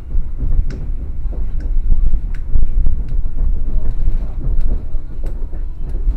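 Train running, heard from inside the carriage: a loud, steady low rumble with irregular sharp clacks and knocks from the running gear and carriage.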